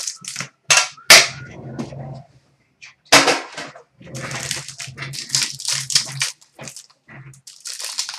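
Trading card packaging being opened by hand: several sharp snaps, loudest about a second in and again after three seconds, then a stretch of crackling, tearing wrapper and handled cards.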